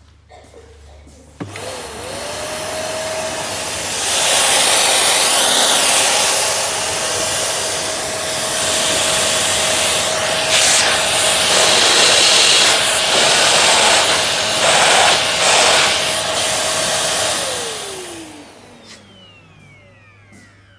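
A new vacuum cleaner switched on about a second and a half in: the motor spins up to a steady whine over a loud rush of air, the airflow getting louder and changing a few times as it runs. Near the end it is switched off and the motor winds down with a falling whine.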